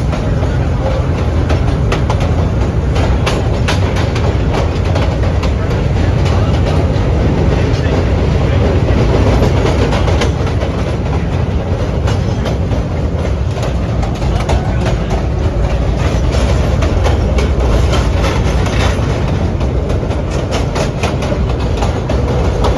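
Vintage R1/9 "Arnine" subway car running along the track: a steady low rumble from the trucks and running gear, with the wheels clicking over rail joints throughout.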